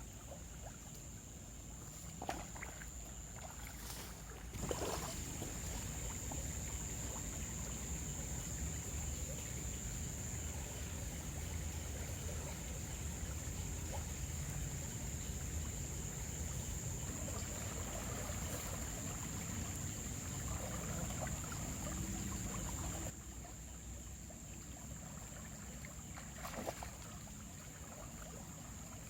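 River water running, louder for most of the middle stretch, with a steady high-pitched whine throughout.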